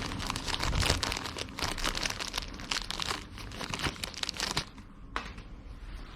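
Plastic wrapping crinkling and rustling as a new grease dust seal is handled by hand, dense for about four and a half seconds, then dying down, with a single sharp click a little after five seconds.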